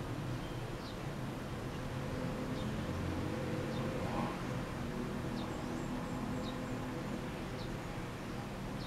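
Steady low background hum with faint, short bird chirps recurring about once a second.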